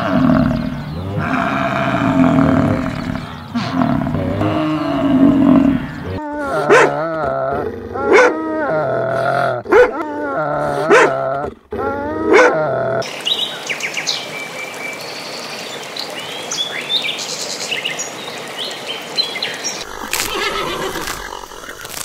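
Dogs barking: a run of about six separate barks in the middle. These follow several seconds of low, drawn-out animal calls and give way to outdoor ambience with faint chirps.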